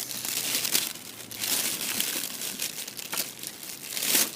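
Plastic packaging being crumpled and torn open by hand, an irregular crinkling rustle.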